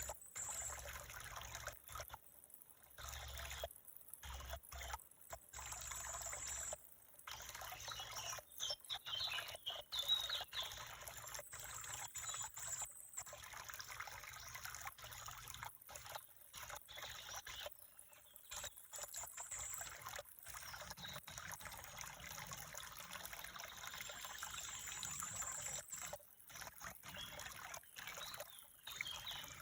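Water trickling steadily, as from a small stream.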